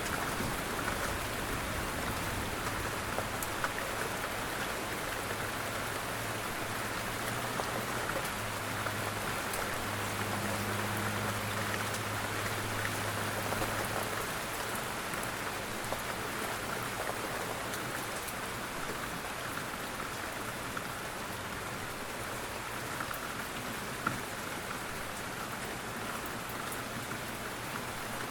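Steady rain falling, an even patter with no letup. A low hum sits under it through the first half and then stops.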